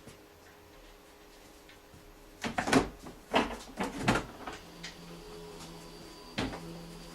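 A run of knocks and clatter, several sharp clunks in quick succession about two and a half seconds in, then a single knock near the end, as parts and tools are handled.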